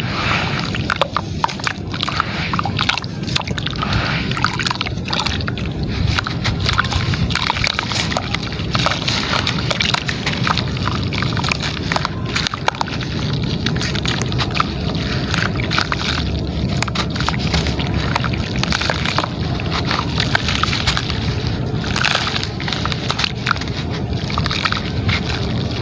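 Gritty material crumbling into water: steady sloshing and wet gurgling, dotted throughout with many small crackles.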